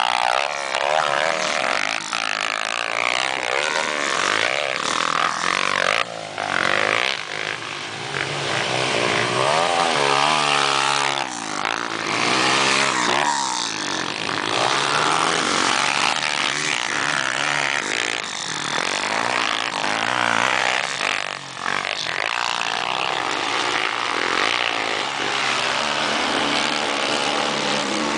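Several motocross bikes racing, their engines revving up and down over and over, with overlapping engine notes as bikes pass.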